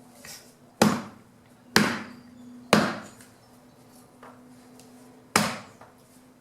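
Branch wood being chopped by hand into chips: four sharp chopping blows, three about a second apart, then a pause before the fourth, each followed by a short low ring.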